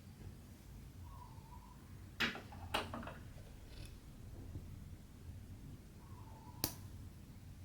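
Needle and cotton thread being drawn through cross-stitch fabric: two short rasps a little after two seconds in, a sharp click near the end, and a faint brief whine twice, over a low hum.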